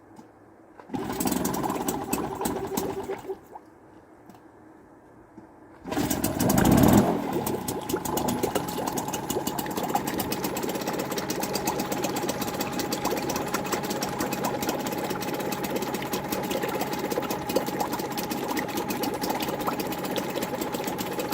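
Parsun T5BMS two-stroke outboard motor on a cold start: it catches and runs for about two seconds, then dies. About six seconds in it starts again, revs up briefly, and settles into steady running with a buzzy two-stroke rattle.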